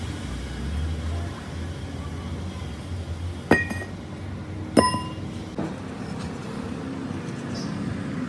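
Two sharp metal-on-metal strikes about a second and a half apart, each ringing briefly, over a steady low rumble.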